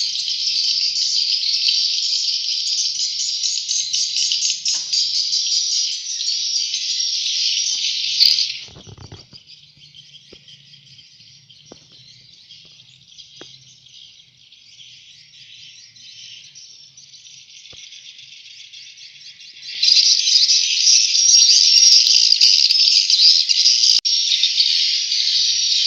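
Swiftlet chicks chirping in a dense, high-pitched chorus. A brief knock comes about eight seconds in, after which the chirping is much quieter. It grows loud again about twenty seconds in.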